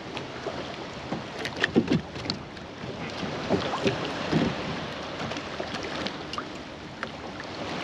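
Wind and water noise around a kayak, with scattered knocks and taps, several close together about one and a half to two seconds in and again around four seconds in.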